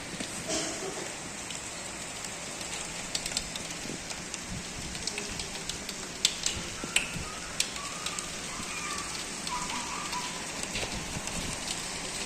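Rain falling steadily, with sharp ticks of drops striking a hard surface scattered through it, most of them in the middle stretch.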